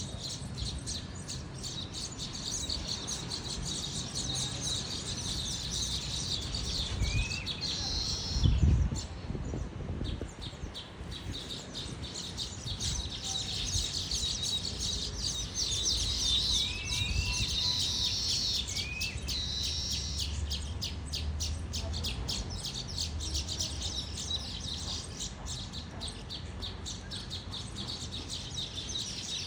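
Many small birds chirping rapidly together, with a few short rising whistles, over a low rumble of wind on the microphone. A loud thump about eight and a half seconds in.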